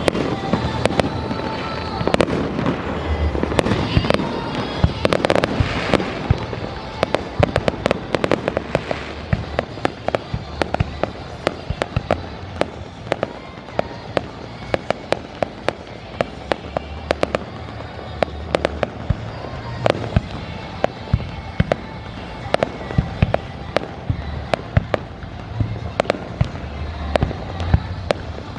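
Fireworks going off in a continuous run of sharp bangs and crackling pops, loudest and densest for the first nine seconds or so, then a lighter, rapid patter of pops.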